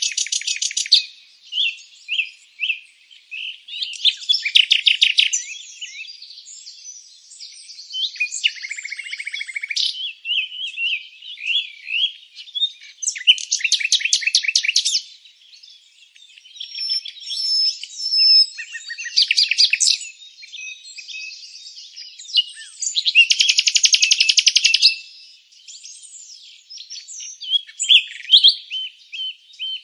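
Several songbirds singing, with loud rapid trills lasting a second or two coming every few seconds and softer chirps and short whistles in between.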